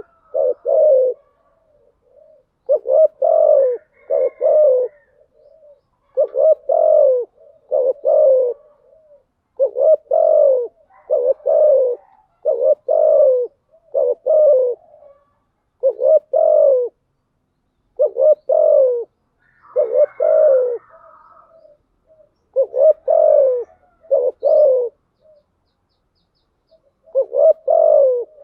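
Spotted dove cooing: a lure call of repeated phrases of two or three low coos, one phrase about every two seconds, with a few short pauses.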